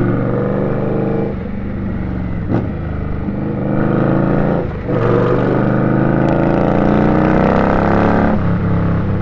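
Indian Scout's V-twin engine under way, heard from the rider's seat: it eases off about a second in, runs low for a few seconds, then climbs steadily in pitch as the bike accelerates, dropping back near the end.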